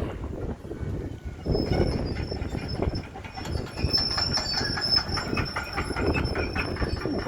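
Tram passing slowly, its wheels giving a steady high-pitched squeal that sets in about a second and a half in, with clicking and a low rumble underneath.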